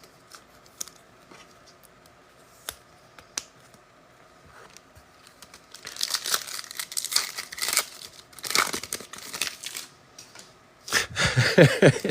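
Faint clicks of cards being handled, then, about halfway through, a trading-card pack's wrapper torn open and crinkled for a few seconds.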